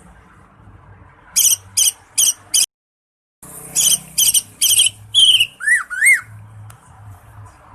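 Cucak ijo (green leafbird) singing loud, piercing whistled notes in quick strings: four sharp notes, a sudden brief dropout, then a longer run ending in two quick up-and-down slurred calls.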